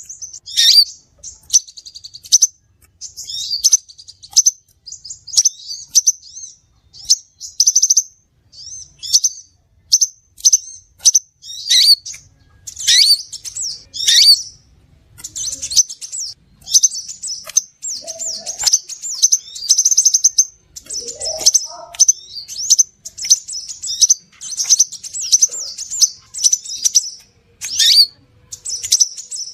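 Crimson sunbird calls on a bird-lure recording: rapid, high-pitched chirps and buzzy trills in a nearly unbroken stream, with several quick notes that fall steeply in pitch.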